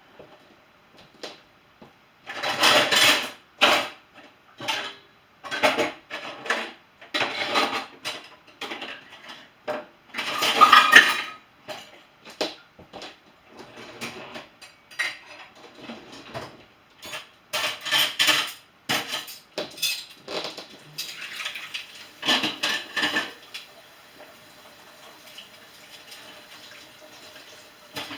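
Dishes and cutlery clattering and clinking as they are loaded into a dishwasher, in irregular knocks and rattles that are loudest about three seconds in and again about ten seconds in, thinning out near the end.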